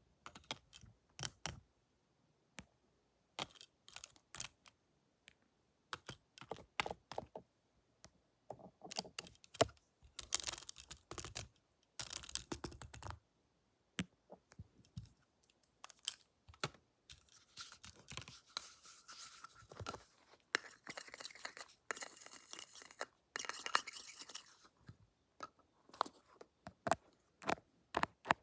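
Pretend barber tools handled close to the microphone: a string of sharp clicks and taps, with longer stretches of scratchy rustling in the middle and latter part.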